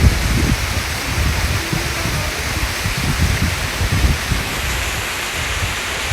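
Steady rushing noise of falling water, with uneven low rumbling underneath.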